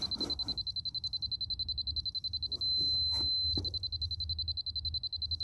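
Laser grade receiver beeping rapidly at a high pitch, switching to one solid steady tone for about a second midway and then back to fast beeps. The solid tone is the receiver's signal that it reads on grade; the fast beeps mean slightly off grade.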